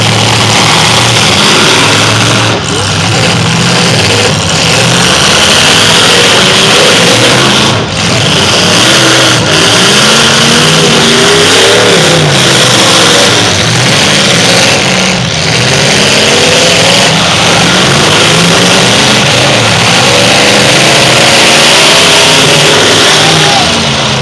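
Several demolition derby cars' engines running and revving together, their pitches wandering up and down, loud and continuous.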